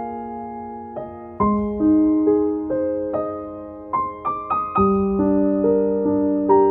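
Soft solo piano background music, slow single notes and chords left to ring over sustained bass notes.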